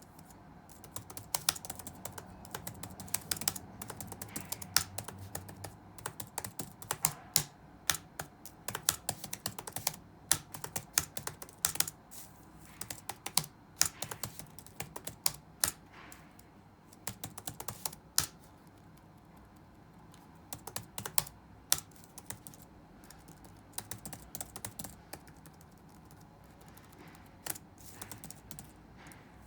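Typing on a computer keyboard: quick irregular runs of key clicks, thinning after about two-thirds of the way in to scattered keystrokes with short pauses.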